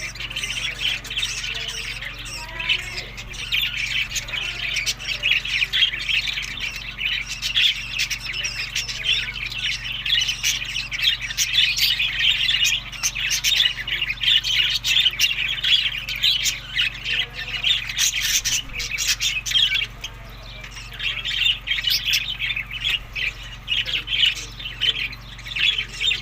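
A group of budgerigars chattering and squawking nonstop in quick, overlapping calls, easing briefly about three quarters of the way through. A steady low hum runs underneath.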